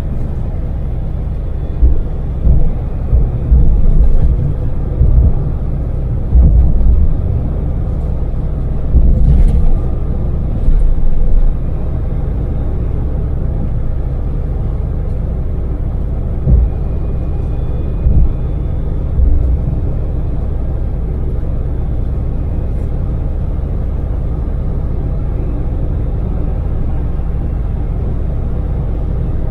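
Daewoo Damas mini van's three-cylinder LPG engine and road noise heard inside the cabin at cruising speed, a steady low rumble. Several short, loud low thumps come in the first half and a few more later on, then the steady rumble carries on.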